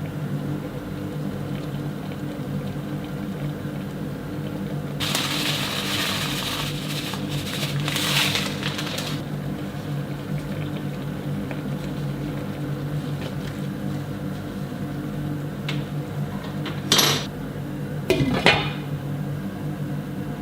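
Kitchen work: dishes and utensils clink over the steady hum of a running kitchen appliance. About five seconds in there are four seconds of hissing noise, and two sharp clinks come near the end.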